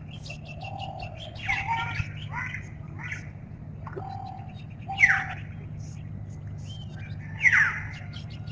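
Birds calling and chirping, with three loud calls that sweep downward in pitch, about a second and a half in, at five seconds and near the end, among many short high chirps. A steady low hum runs underneath.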